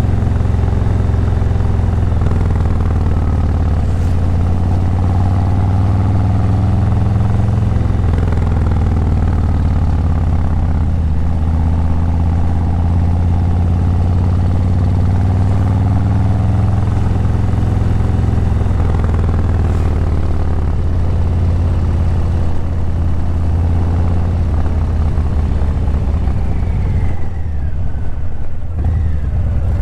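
Harley-Davidson Breakout 117's Milwaukee-Eight 117 V-twin running through a Vance & Hines Eliminator 300 slip-on exhaust while riding, a deep steady rumble whose pitch rises and falls as the revs change. Near the end the engine note drops briefly.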